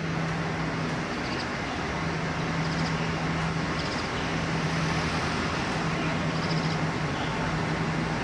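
Steady road-traffic noise with a low engine-like hum that cuts out and comes back several times. Faint short high chirps are heard a few times over it.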